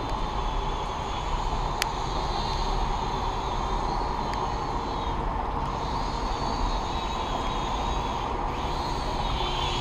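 Steady hiss of rain, with the faint high whine of a Syma X5C quadcopter's small electric motors wavering up and down in pitch as it flies. Two sharp ticks come through, one about two seconds in and one past four seconds.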